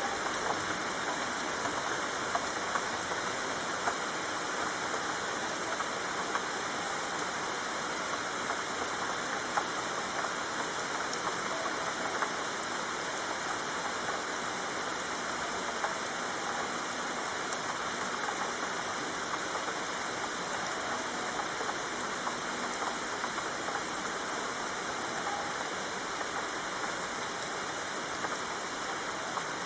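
Steady rain falling, an even hiss dotted with small drop ticks, with no change in intensity.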